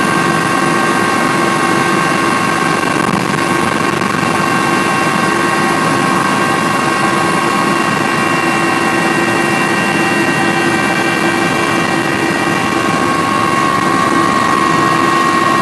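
Steady machine drone: an engine running evenly with a constant high whine over a rushing noise, unchanging throughout.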